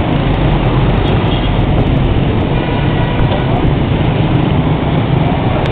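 Loud, steady rumble of motorbike traffic heard while riding: engines and road noise with no letup.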